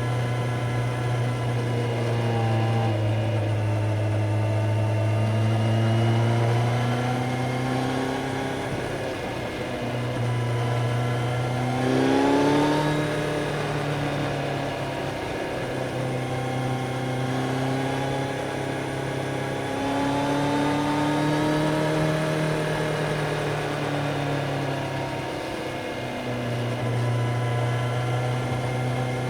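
Kawasaki Z900 inline-four engine under way, its pitch rising and falling again and again as the rider accelerates and rolls off the throttle. About twelve seconds in there is a quick, sharp rev.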